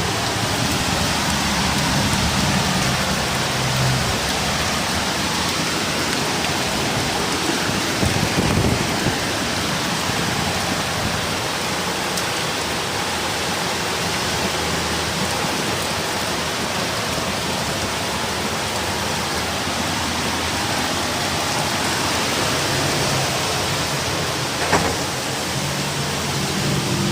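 Heavy rain with wind: a steady, even downpour hiss. A low hum comes in briefly near the start and again near the end, and there is one sharp knock near the end.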